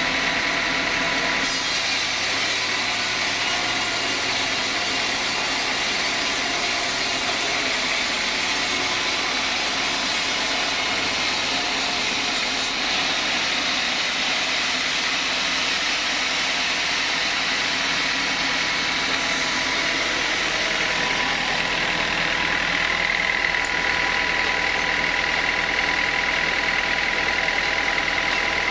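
Sawmill saw running steadily: a continuous loud machine noise with a steady whine and high hiss, the hiss shifting a little a couple of times.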